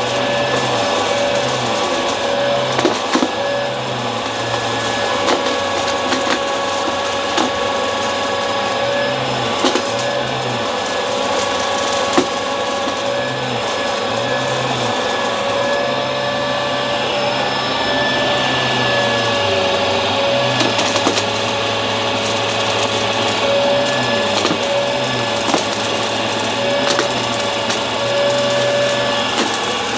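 Upright vacuum cleaner running steadily with a motor whine, while the brushroll picks up debris in scattered crunchy clicks and crackles. The low drone keeps shifting as the machine is pushed back and forth.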